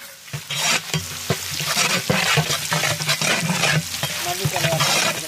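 Sliced onions, cinnamon and dried red chillies sizzling in hot oil in a large metal cooking pot, stirred with a ladle that scrapes and clicks against the pot. The frying starts about half a second in, over a steady low hum.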